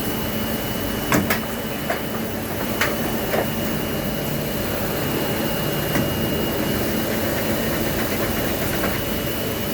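Okuma MU-400VA machining centre running, a steady mechanical hum with a constant high whine, and a few short clicks or knocks about one, three and six seconds in.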